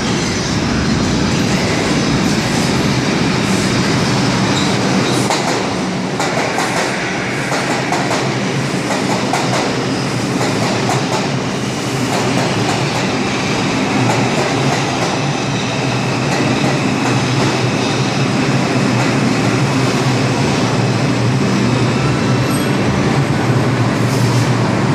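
R142 subway train pulling into an underground station: steady, loud rumble of the cars on the rails, with wheels clattering over rail joints and some squeal.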